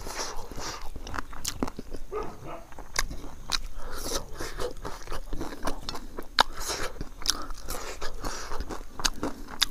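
A person chewing a mouthful of rice and Naga pickle close to a clip-on microphone: wet chewing with irregular sharp crunches.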